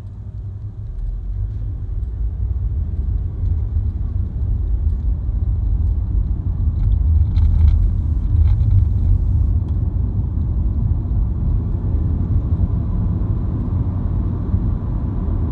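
Car's engine and road rumble heard from inside the cabin while driving. It swells over the first couple of seconds as the car picks up speed, then holds steady.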